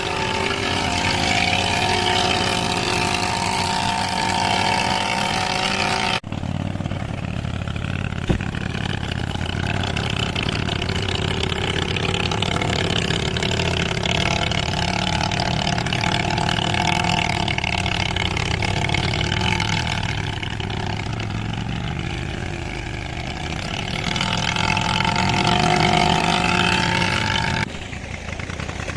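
Motorcycle engine running steadily, rising a little in level near the end, with abrupt changes in the sound about six seconds in and shortly before the end.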